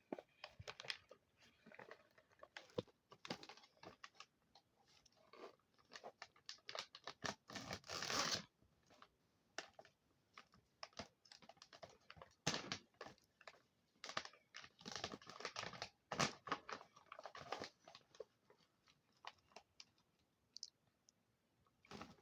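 Someone crunching and chewing hard pretzel sticks close to the microphone: irregular dense crackles in bursts, the loudest about a third of the way in, thinning out near the end.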